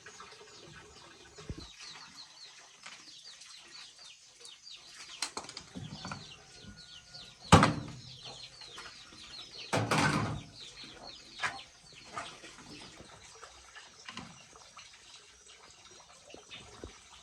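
Birds chirping steadily, with a sharp loud knock about halfway through and a longer clatter a couple of seconds later, plus a few smaller knocks.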